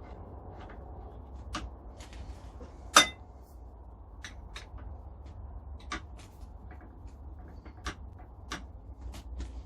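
Metal grinder parts clinking and knocking by hand during assembly of the tracking wheel, a dozen or so light clicks with one loud ringing clink about three seconds in. A steady low hum runs underneath.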